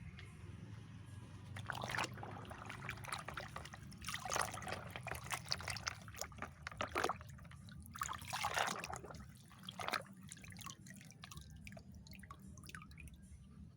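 Water splashing and dripping in three bursts as plastic toy vehicles are washed, over a steady low hum.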